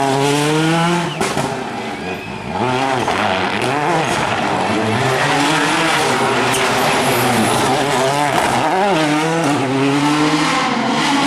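Rally car engine revving hard, its pitch climbing and dropping over and over through gear changes and lifts off the throttle, with a brief quieter lift between about one and two and a half seconds in.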